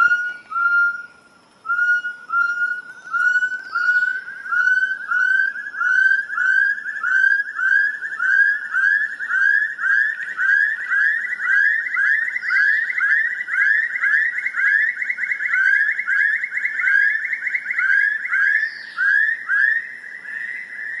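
The Mangkhri wa, the Kaman Mishmi 'season bird', calling: a long series of short whistled notes repeated about twice a second, slowly climbing in pitch and coming a little faster as it goes on. Its call is taken by the Kaman Mishmi as the sign that the farming season begins.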